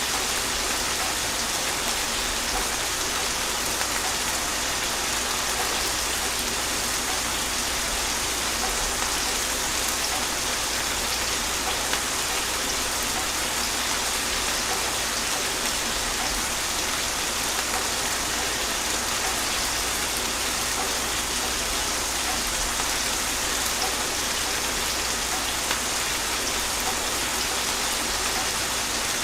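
Steady, gentle rain falling on a surface, a constant patter of drops with no thunder.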